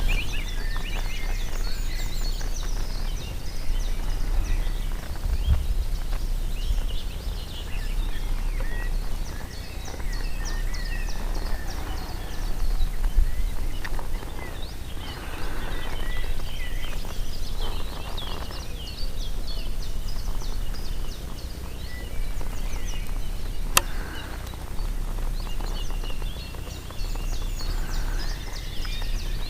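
Several small birds chirping and twittering in a continuous chorus, over a steady low rumble of wind on the microphone.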